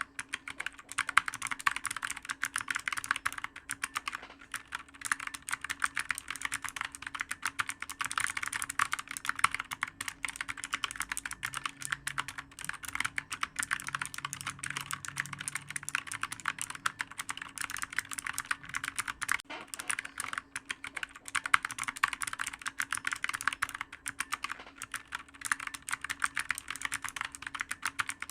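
Computer keyboard typed on quickly and without a break: a dense run of clicky keystrokes over a faint steady hum.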